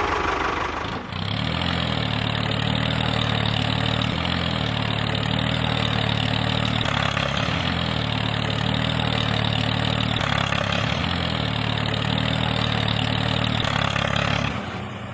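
An engine running steadily at idle, its note settling about a second in and stopping abruptly at the very end.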